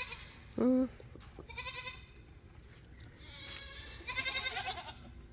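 Goats bleating: several short, quavering bleats, with a lower, shorter call under a second in.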